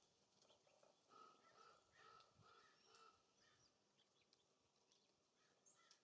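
Faint bird calls: a quick run of short, repeated notes about a second in, with scattered brief high chips.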